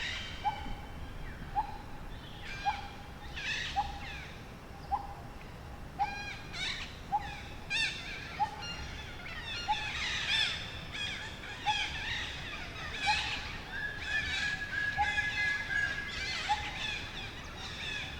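Forest birdsong: many birds chirping and trilling at once, with one short low note repeated about once a second throughout and a held whistled note in the second half.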